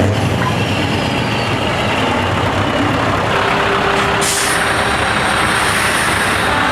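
Heavy truck engine running loudly through an open, unsilenced exhaust, with a short burst of hissing air about four seconds in and again near the end.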